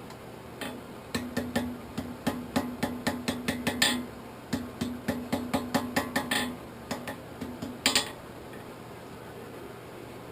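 Blacksmith's hammer striking hot steel on an anvil while forging a socketed arrowhead: a quick run of blows, about three a second, with the anvil ringing under them. There is a brief pause about four seconds in, and the hammering stops about eight seconds in.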